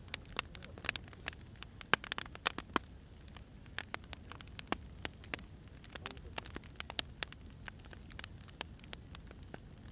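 Firewood burning: irregular sharp crackles and pops over a low steady rumble and hiss, with a cluster of louder snaps about two seconds in.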